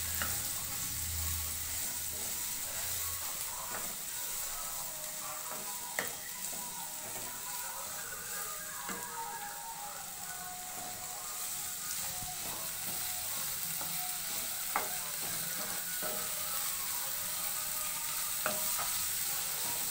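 Chopped onion, tomato and garlic sizzling in hot oil in a non-stick frying pan over a gas flame, stirred with a wooden spatula. A steady frying hiss, with a few sharp taps of the spatula against the pan.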